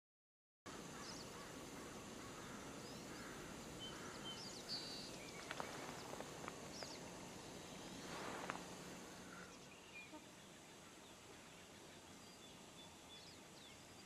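Faint outdoor ambience, a low steady hiss starting about half a second in, with scattered short high chirps of small birds, mostly in the first two-thirds.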